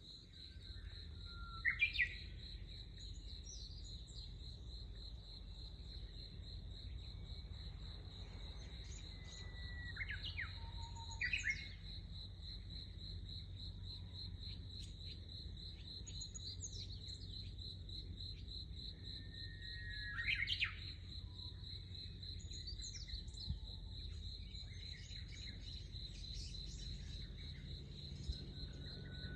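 Insects trilling in a continuous, finely pulsing high chorus. A bird cuts in with loud, sharp sweeping calls a few times: near the start, twice around a third of the way in, and about two-thirds through.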